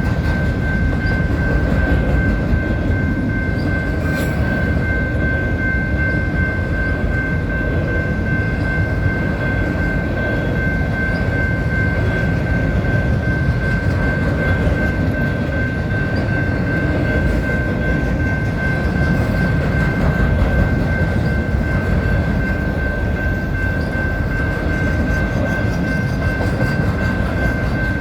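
Autorack cars of a BNSF freight train rolling steadily past a grade crossing: a dense low rumble of wheels on rail with light clicking, and a steady high-pitched tone over it.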